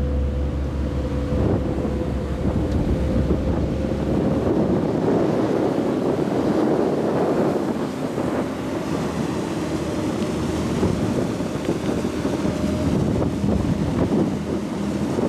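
Wind buffeting the microphone and water rushing past the hull of the fast ferry Sunliner 2 under way, over the steady drone of its engines. A faint tone in the engine sound slowly rises in pitch.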